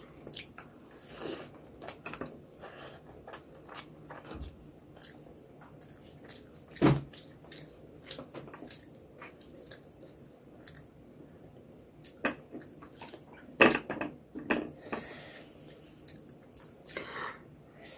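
Close-miked chewing and wet mouth smacks of someone eating rice and egg curry by hand, with scattered soft clicks. Two louder smacks come about seven seconds in and again a little before fourteen seconds.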